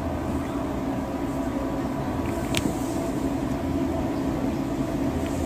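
A steady low mechanical rumble with a constant hum, like a running vehicle engine, with a faint click a little past halfway.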